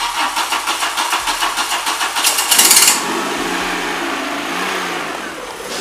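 Volkswagen Rabbit (Golf Mk1) with a swapped-in 16-valve 2.0-litre four-cylinder engine being started after a fresh oil change. The starter cranks with a quick even beat for about two seconds, the engine catches with a brief rev, then settles into a steady idle.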